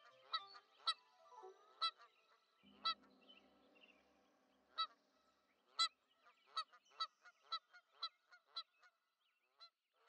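A bird's short calls repeated in a series, spaced out at first, then quickening to about three a second in the second half before stopping.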